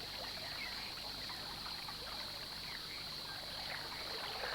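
Faint wildlife ambience: a steady high-pitched hiss or buzz with scattered faint short chirps over it.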